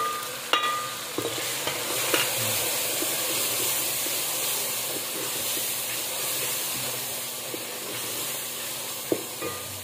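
Onion, tomato and spice masala frying in ghee in a metal pot: a steady sizzle, with a wooden spatula stirring and scraping through it and knocking against the pot a few times, early on and again near the end.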